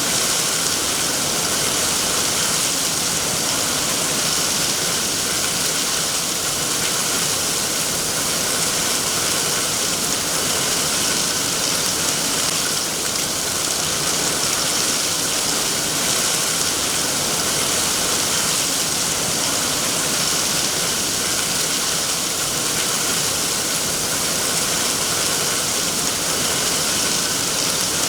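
Steady rain falling, an even hiss with no breaks or distinct drops.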